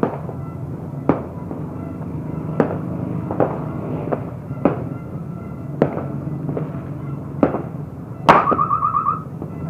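New Year fireworks going off, with sharp bangs at irregular intervals about once a second. The loudest bang comes near the end and is followed by a quick rattling string of crackles.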